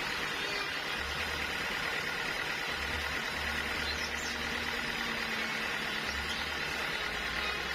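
Sawmill machinery with an engine running steadily, with a steady hiss and an uneven low rumble.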